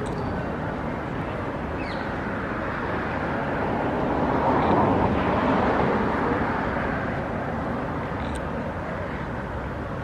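City background noise with a passing vehicle that swells to its loudest about halfway through and then fades.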